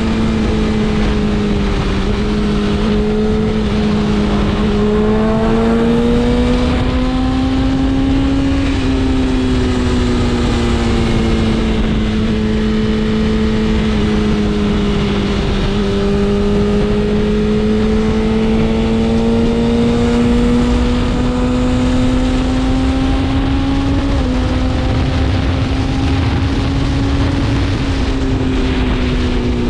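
BMW S1000RR's inline-four engine running at a steady cruise, its note slowly rising and falling with the throttle, with a few brief dips in pitch, over a steady rush of wind and road noise.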